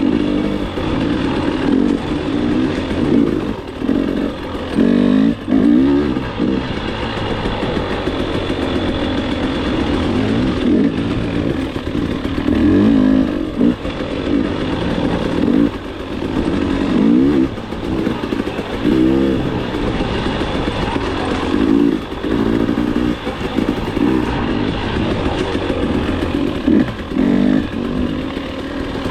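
KTM two-stroke enduro dirt bike engine under way, heard from onboard, revving up in repeated rising surges and backing off between them as the throttle is worked.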